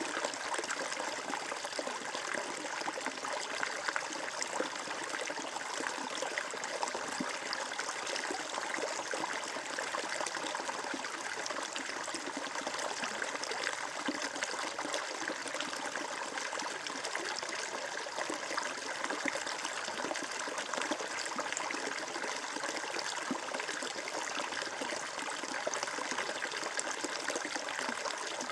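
Flowing water trickling and babbling steadily, like a small stream running over stones.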